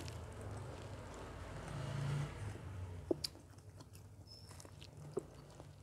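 Faint close-miked chewing of a mouthful of fried rice with anchovies, with a brief low hum about two seconds in. Two short sharp clicks of cutlery on a plate come about three and five seconds in.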